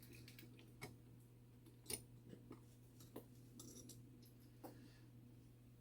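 Faint, irregular clicks and taps of small tools and parts as a mechanical clock movement is worked apart by hand, about six in all, over a low steady hum.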